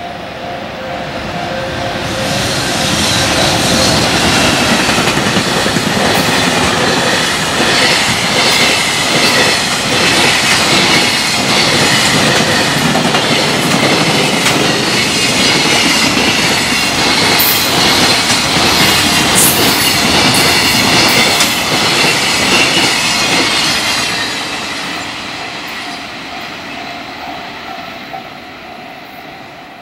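High-speed freight train passing a level crossing at speed: its noise builds about two seconds in, stays loud for some twenty seconds with a rapid clatter of wheels over the rails and a high, wavering wheel squeal, then fades. The crossing's warning bell rings steadily before the train arrives and can be heard again as it fades.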